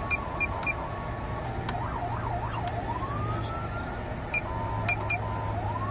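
A Code 3 police car siren, turned down low and heard from inside the car, is switched between tones. It plays a steady tone that steps slightly in pitch, a quick up-and-down yelp about two seconds in, then a rising wail, and later the steady tone again with another rise near the end. Several sharp clicks with a short high tick come from the controller's buttons being pressed.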